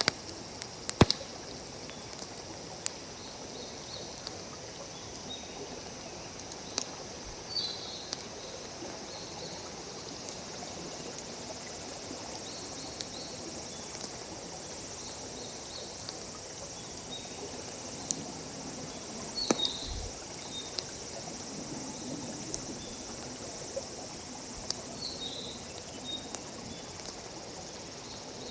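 Open wood fire crackling, with scattered sharp pops; the louder ones come about a second in and again just before twenty seconds. Behind it is a steady high hiss of insects, with a few brief chirps.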